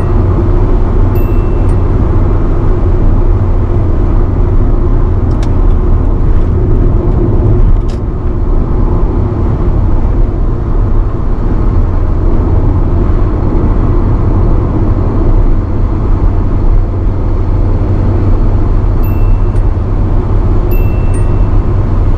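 1985 Nissan Sunny B12 at highway speed: steady engine and road noise. A faint chime rings once about a second in and starts repeating about once a second near the end, the warning sound, typical of the speed warning chime fitted to Japanese-market cars of that era.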